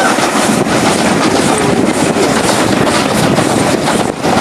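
Steam-hauled heritage passenger train running: a loud, steady rumble and rattle of the carriage on the track, dipping briefly near the end.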